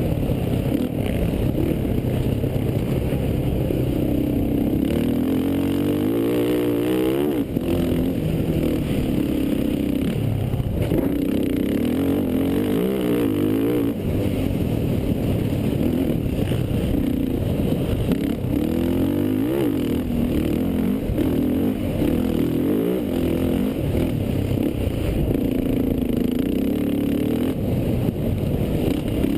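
Racing quad engine running hard, its pitch rising and falling again and again as the throttle opens and closes.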